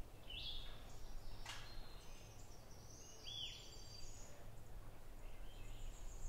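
Birds calling at dusk: scattered short chirps and whistled notes, one arched note about halfway through, over a steady low hum.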